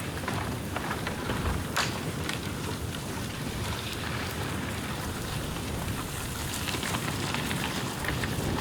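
Dry bamboo burning in an open bonfire: steady crackling with scattered sharp pops, one louder crack about two seconds in.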